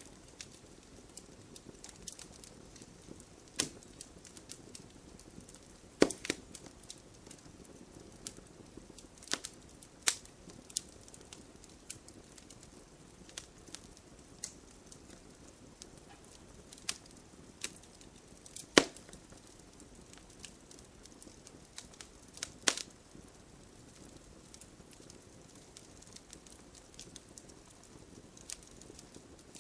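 Wood fire burning in a fireplace, crackling and popping irregularly over a low steady hiss, with a few louder sharp pops.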